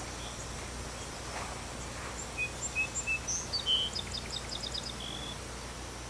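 A bird calling: a few short whistled notes from about two seconds in, then a falling slur and a quick run of high chirps that stop about five seconds in, over a steady outdoor background hiss.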